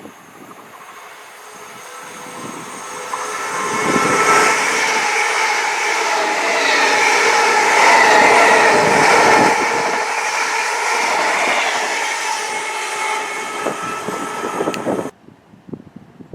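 A train passing on the track: it builds up over the first few seconds, is loudest around the middle with steady whining tones over the rumble of the wheels, then fades and cuts off suddenly near the end.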